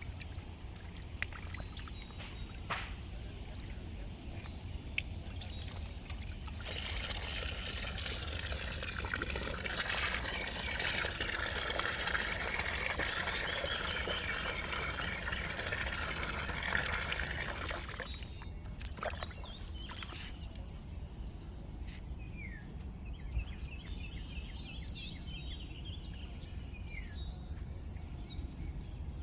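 Water pouring steadily for about ten seconds, starting about a quarter of the way in and stopping a little past the middle. In the latter part, ducklings peep in short chirps.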